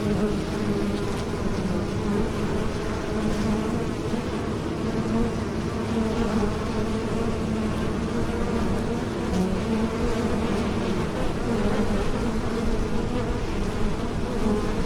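Bees buzzing in flight, a steady drone that holds without a break.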